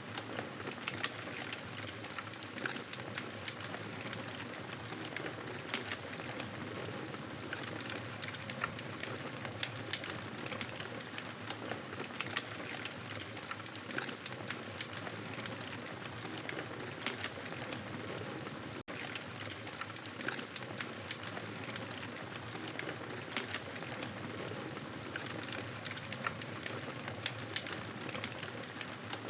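Campfire burning with steady dense crackling and many small pops, broken by a split-second gap about two-thirds of the way through.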